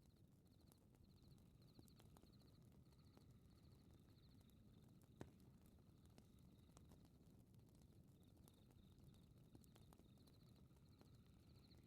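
Faint fireplace crackling: soft scattered pops over a low rumble, with one louder pop about five seconds in. Behind it, crickets chirp in a steady rhythm of about one and a half chirps a second.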